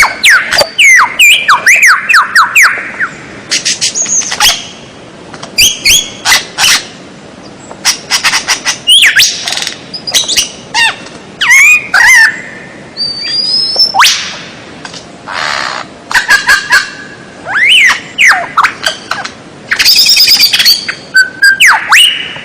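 Recorded songbird calls: a fast, loud string of varied chirps, sweeping whistles and rattling trills in short bursts with brief pauses between them.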